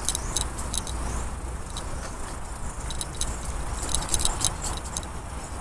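Bicycle coasting downhill: a scatter of quick, irregular metallic clicks and rattles over a steady low rumble.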